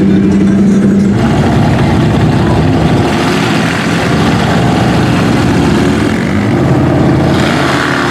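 Off-road vehicle engines running loud and continuously. About a second in, a steady hum gives way to a rougher, noisier engine sound.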